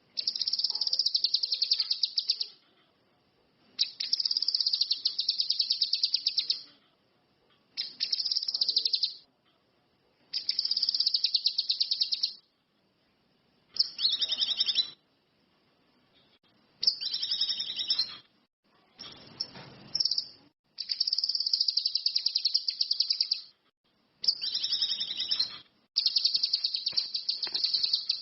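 Cucak kinoi (ranti mas) bird singing in repeated phrases of a fast, high trill, each one to three seconds long with short pauses between, about ten phrases in all.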